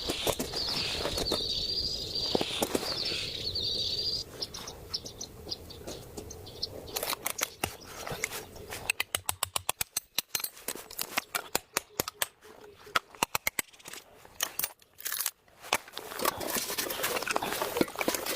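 A high, steady insect chirring for the first few seconds, then many irregular sharp clicks and taps, with a rustle near the end.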